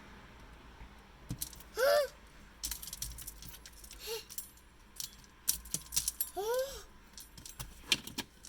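A young child's short squealing calls, two of them clearly with a fainter one between, over scattered clicks and rattling from objects being handled.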